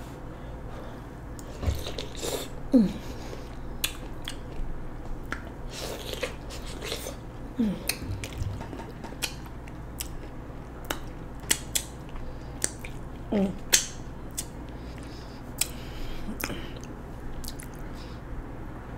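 Close-miked biting and chewing of a corn on the cob: irregular crisp clicks of kernels being bitten off the cob and chewed, with wet mouth sounds. A few short falling voice sounds, like murmurs of enjoyment, come now and then.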